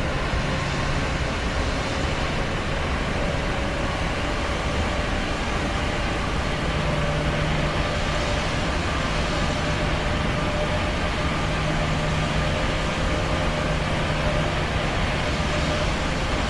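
Steady drone of aircraft engines and rushing air, an even roar with a low hum underneath and no breaks.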